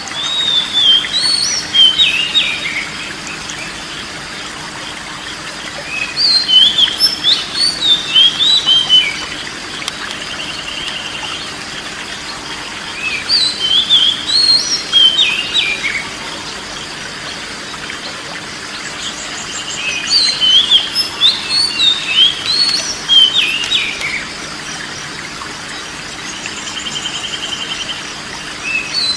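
A songbird singing bouts of quick, varied whistled phrases, four bursts a few seconds apart, with a short buzzy trill twice in the pauses, over a steady background hiss.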